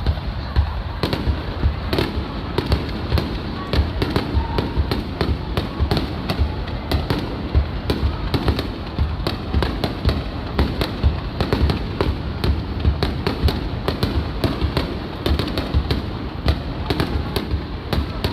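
Aerial fireworks bursting in a rapid barrage: many sharp bangs and crackles, several a second, over a continuous deep booming.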